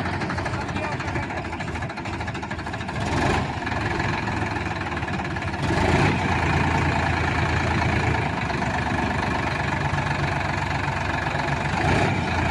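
Sonalika tractor's diesel engine running steadily, a little louder from about halfway through.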